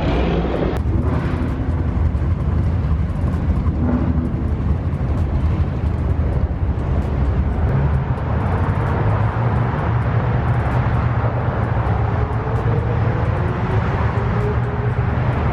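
A car running: a steady low rumble with a hiss of noise over it.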